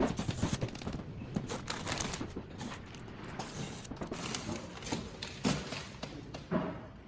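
A quick, irregular run of light clicks and taps.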